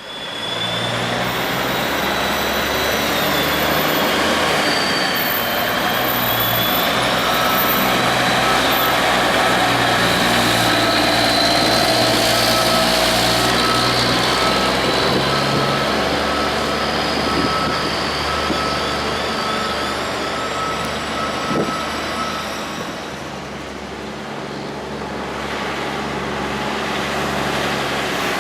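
Autocar dump truck's diesel engine running, with a backup alarm beeping steadily through the middle stretch.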